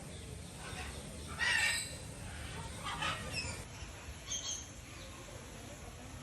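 A few short, high chirps from birds, each a second or so apart, over a steady low background noise.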